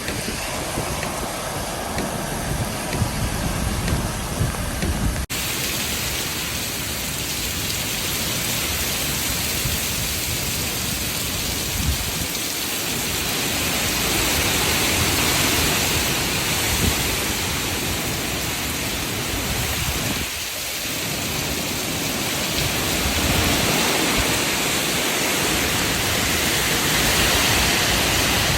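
Heavy wind-driven rain in a severe thunderstorm: a dense, steady hiss of rain and wind.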